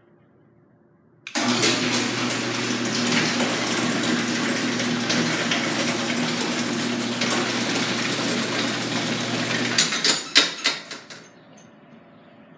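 Garage door opener starting up about a second in and running steadily with a low motor hum while the door travels, then stopping, followed by a few clunks near the end.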